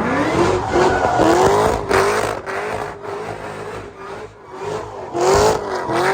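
Supercharged Cadillac CTS-V V8 revved in a series of quick blips, each a rising whine from the supercharger, with a steadier stretch in the middle before two more rises near the end.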